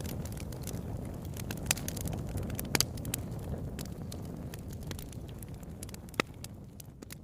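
Wood fire crackling in a fireplace: a low steady rumble of burning with scattered sharp pops and snaps, the sound fading down over the last couple of seconds.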